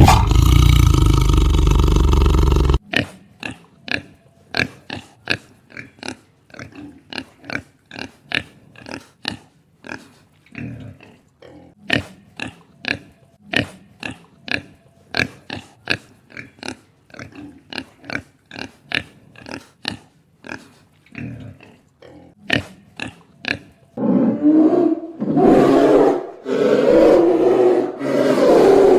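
Animal calls in three parts. A loud, drawn-out call runs for the first three seconds or so. Then come about twenty seconds of short, sharp calls repeated roughly twice a second, and from about 24 seconds in, loud, longer calls again.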